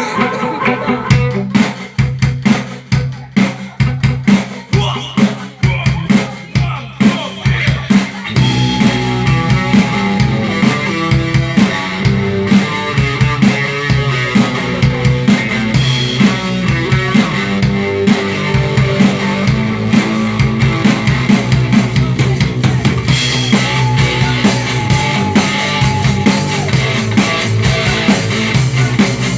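Rock band playing an instrumental passage on drums and electric guitar: sharp, spaced-out hits for the first several seconds, then the full band comes in about eight seconds in and plays steadily on.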